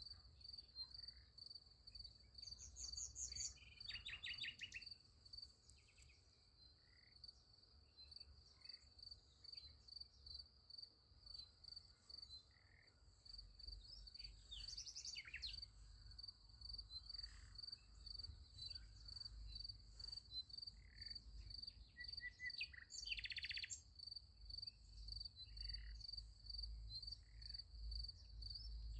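Field crickets chirping in a steady, even pulse, with scattered bird calls and short trilling songs over it. The loudest bird trills come about three to four seconds in, around fifteen seconds, and around twenty-three seconds. Faint throughout, over a low rumble.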